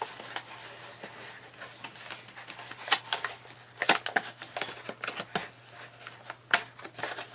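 A bag being handled and opened: crinkling and rustling with scattered sharp clicks, the loudest about three and six and a half seconds in.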